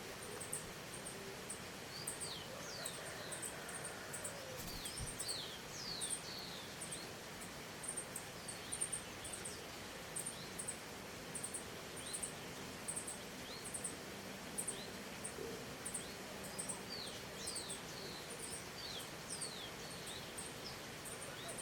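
Wild birds calling with short, high, downward-slurred whistles that come in clusters, over a regular high-pitched ticking and a steady background hiss.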